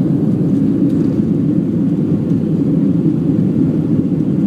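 Steady low rumble of engine and airflow noise inside the cabin of a Boeing 737 in flight.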